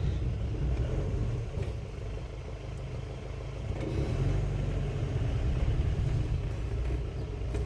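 Low, steady rumble of a road vehicle in congested traffic, easing a little a couple of seconds in before building again.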